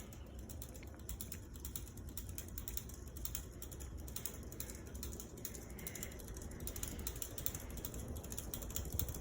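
Harbor Breeze Calera all-weather ceiling fan running on high in reverse: a steady low hum with a continuous rapid mechanical ticking.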